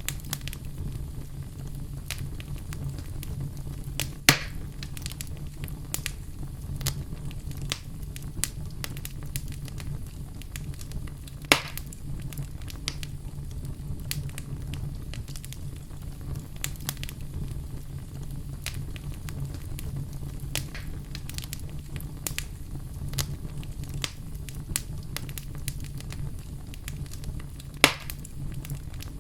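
Wood fire in a fireplace crackling steadily over a low rumble, with three louder pops.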